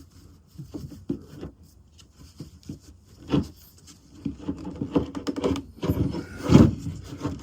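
Burlap rustling and scraping against a wooden walking stick as it is looped around the handle and pulled tight, in irregular short strokes with a few small knocks. Two louder handling sounds come about three and a half seconds in and near the end.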